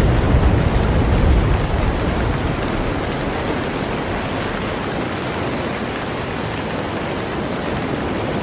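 Heavy rain falling on a boat, a steady even hiss of drops. A low rumble underneath fades away over the first few seconds.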